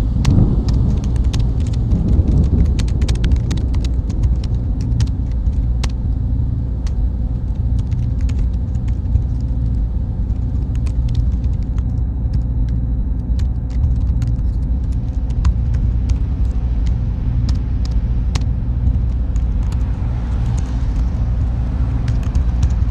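Steady low rumble of ambient machine noise, with a faint steady hum and many small, irregular clicks and ticks over it.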